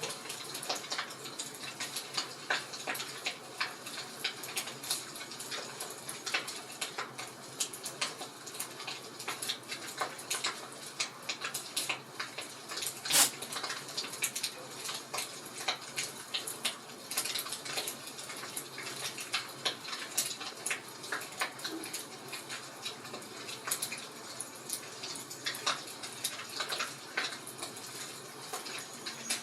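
Wood fire crackling in a fireplace: irregular pops and snaps over a soft hiss, with one louder pop about halfway through.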